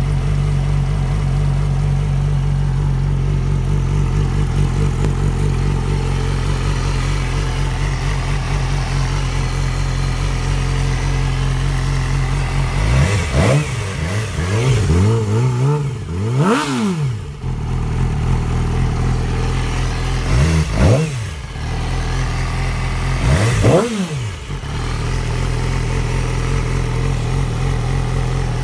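Yamaha R6's inline-four engine idling steadily, then revved in sharp throttle blips: a run of several quick rises and falls in revs about halfway through, then two single blips a few seconds apart, each dropping straight back to idle.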